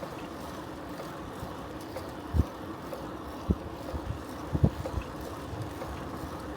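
Steady rolling and wind noise of a bicycle ride, with several short low thumps of wind buffeting the microphone from about two seconds in.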